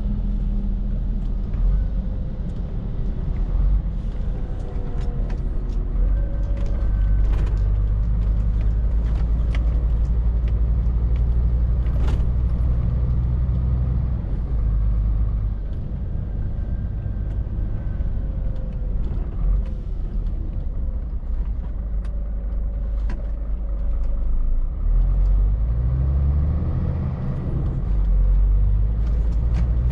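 Scania R450 lorry's six-cylinder diesel engine running steadily under way, with road noise and a few sharp knocks. Near the end the engine note climbs in several steps.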